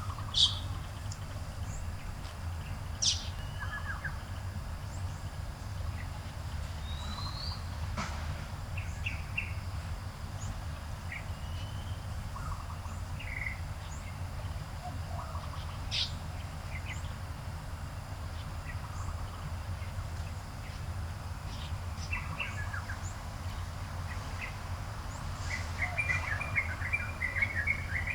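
Garden birds chirping and calling in short, scattered notes, with a few sharp loud calls and a quick run of chirps near the end, over a steady low background rumble.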